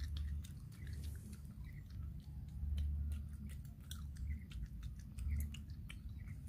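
A child chewing grilled frog at close range: many small, sharp, crackly mouth clicks and crunches, over a low rumble.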